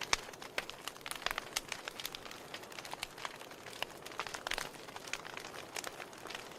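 Wood fire in a fireplace crackling: burning logs giving irregular sharp pops and snaps over a soft hiss of flame, with a louder pop just after the start.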